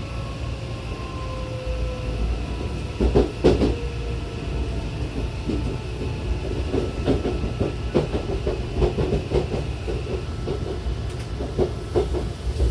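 Odakyu 70000 series GSE train with a full-SiC VVVF inverter. Its traction-motor whine glides down in pitch over the first two seconds as the train slows. Then the wheels clatter over rail joints in a quickening run of clacks, under a steady high tone that stops a couple of seconds before the end.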